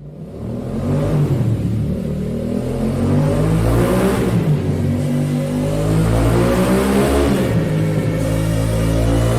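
Yamaha Ténéré 700's 689 cc parallel-twin engine running through a Mivv Oval aftermarket exhaust, its revs rising and falling. The sound fades up from silence in the first second.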